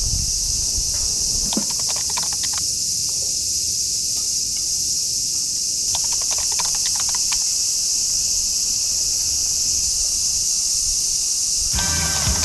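Steady, high-pitched chorus of summer insects, with a few light clicks and taps about 2 seconds and 6 to 7 seconds in; music comes in near the end.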